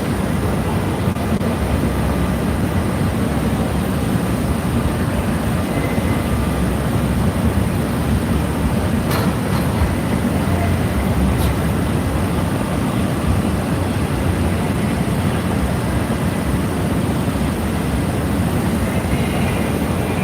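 Steady low rumble of vehicle noise, even throughout, with no distinct events.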